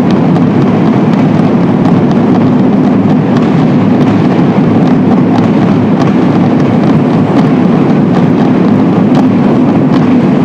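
Low male voices of a choir's bass section singing together, steady and loud, in a recording so overloaded that it sounds like a dense roar.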